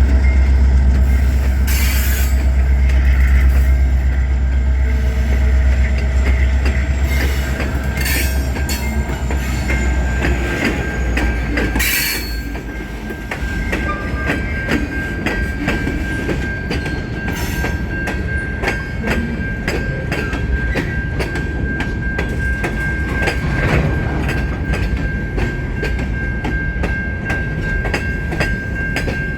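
A freight train passing. Diesel locomotive engines rumble deeply for the first dozen seconds. Then rail cars roll by with a rapid clickety-clack of wheels over rail joints, under a steady high wheel-flange squeal.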